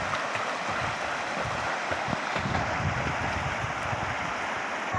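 Creek water running steadily, with a low, uneven wind rumble on the microphone.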